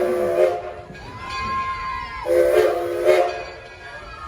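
Steam locomotive whistle sounding two short chime blasts, the first ending about half a second in and the second coming a little after two seconds, with a light hiss of steam underneath.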